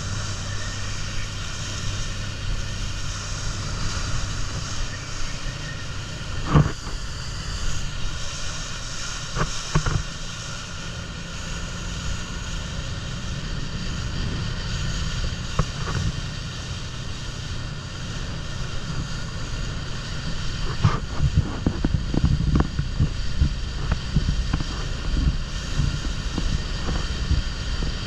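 Motorboat engine running steadily under way, with wind buffeting the microphone and a few sharp thumps.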